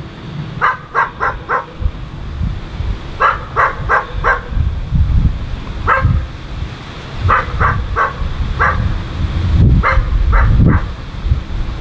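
A dog barking repeatedly, in quick runs of three or four barks with short pauses between runs, over a steady low rumble.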